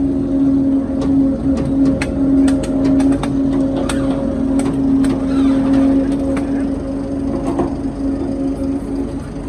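Electric power tool motor running at a steady high speed, with many sharp clicks and ticks from the work piece on top of it.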